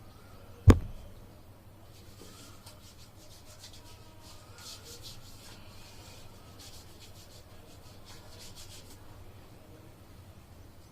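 A sharp knock a little under a second in, then hands rubbing hand sanitizer together in soft, repeated strokes for several seconds.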